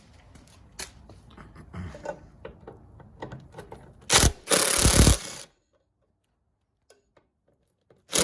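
Light clicks of tools being handled. About four seconds in, a cordless power driver runs in a short burst and then a longer one of under a second, spinning out a bolt. It runs again briefly near the end.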